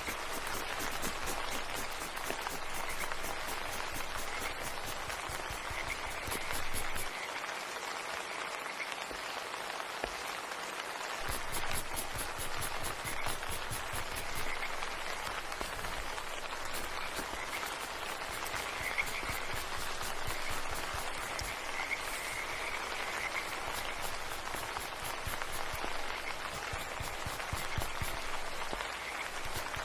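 Frogs croaking in short repeated calls over a continuous steady hiss.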